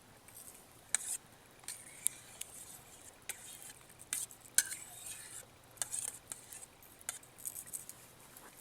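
A metal utensil stirring and scraping in a small metal camp cook pot of stew over coals, with irregular light clinks and scrapes.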